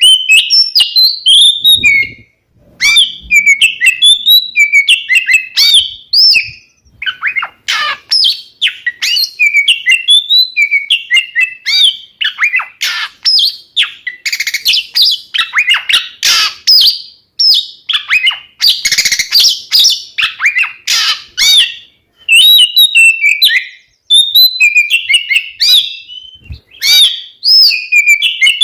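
Oriental magpie-robin (kacer) singing loudly: a long, varied stream of rapid whistled notes, trills and chattering phrases, broken by a few short pauses, and densest in the middle.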